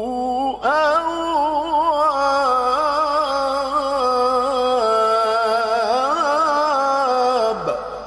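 A male Quran reciter's voice sings a single long, drawn-out melodic phrase in mujawwad style, full of quick wavering ornaments. It ends with a downward glide about seven and a half seconds in, and an echo dies away after it.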